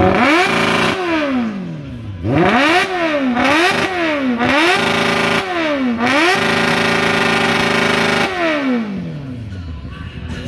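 Motorcycle engine and exhaust being revved: a string of quick blips whose pitch climbs and falls, then held at high revs for about two seconds before dropping back down near the end.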